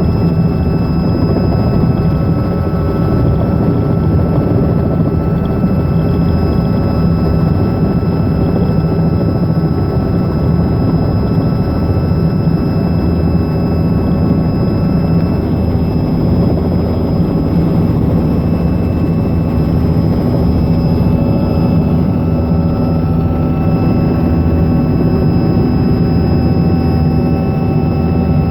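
Robinson R66 helicopter's Rolls-Royce RR300 turboshaft engine and rotor running steadily: a constant low rotor drone with a high, even turbine whine above it.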